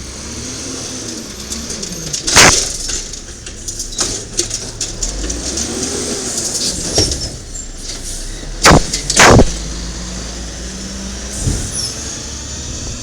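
Diesel engine of a 1995 Peterbilt garbage truck running with an Amrep Octo automated side-loader working: a hydraulic whine rises and falls twice as the arm cycles, and three loud bangs, about two seconds in and twice close together near the middle, as a cart hits the hopper while being dumped.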